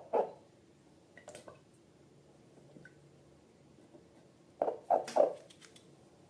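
Slime being squished and worked by hand, giving short wet squelches: one at the start, a few faint clicks about a second in, then three quick squelches with light clicks after them near the end.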